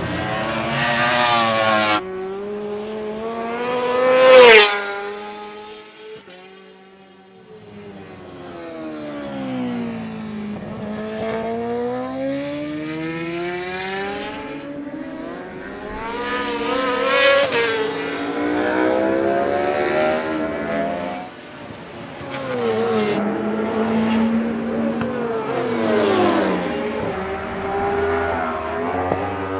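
World Superbike racing motorcycles passing at speed, their engines rising and falling in pitch through throttle and gear changes. The loudest is a close pass about four seconds in, and it dies away to a lull shortly after.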